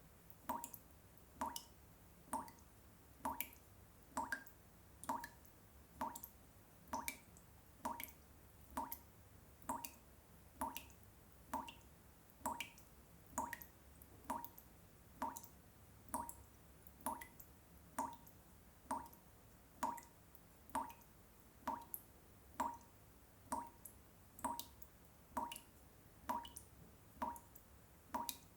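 Water drops falling one at a time into water, an evenly spaced plinking drip a little faster than once a second, each drop with a short rising ping. A faint low hum sits underneath.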